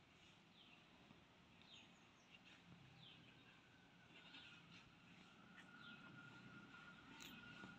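Near silence, with faint short falling chirps repeating roughly once a second, as from small birds calling; a faint steady high tone joins about halfway through.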